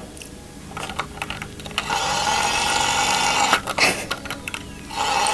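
Small battery motor of a toy mini washing machine whining as it runs, starting and stopping: quiet with a few clicks at first, running from about two seconds in, cutting out briefly, then running again near the end.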